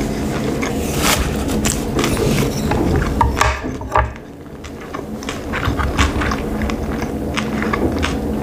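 Close-miked chewing of a mouthful of sushi, with many small wet mouth clicks. About four seconds in, a single knock as wooden chopsticks are set down on the wooden board.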